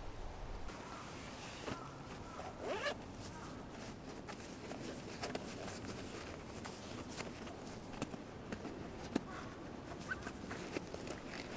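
Rustling and scattered small clicks of camping gear being handled, with a short rising zip-like rasp about three seconds in.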